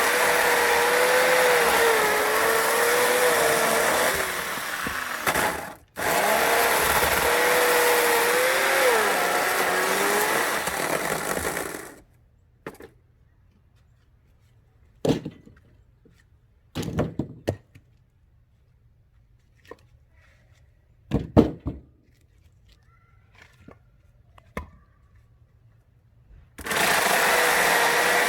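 Chainsaw running and cutting firewood, its pitch dipping and wavering under load, in two stretches of about six seconds each. Then come several scattered knocks and thumps, and the saw runs again near the end.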